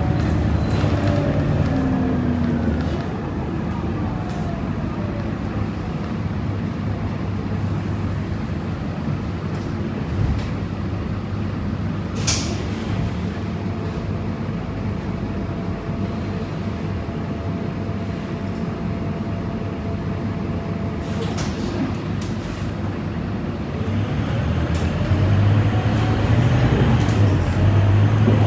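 Scania K230UB city bus's diesel engine slowing down and idling at a stop, with a short sharp hiss of air about twelve seconds in and more hisses near twenty-one seconds. From about twenty-four seconds in, the engine rises and gets louder as the bus pulls away.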